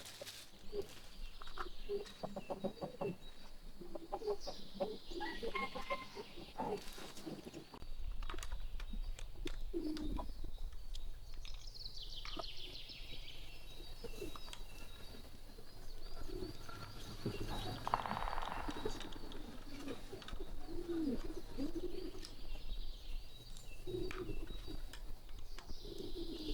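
Chickens clucking in short, repeated calls, with small birds chirping high above them now and then. A low steady rumble sets in about eight seconds in.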